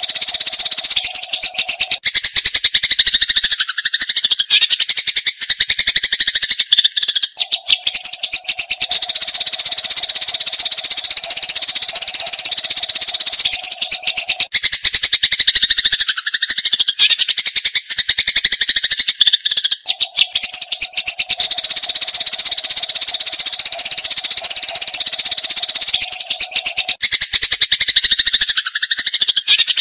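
Eurasian tree sparrows chirping rapidly and without pause in a fighting chatter, loud and dense. The recording repeats in a loop, with a faint steady tone under it that comes and goes.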